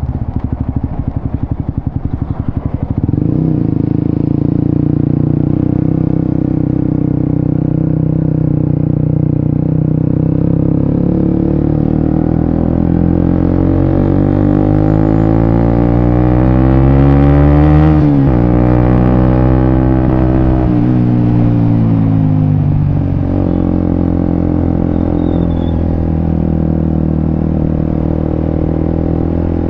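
Suzuki GSX-S150's single-cylinder engine running through a Quinze Big Volume aftermarket exhaust. It has a choppy, pulsing beat for the first few seconds, then runs steadily, climbs in pitch to a peak about eighteen seconds in, breaks off sharply there and falls away.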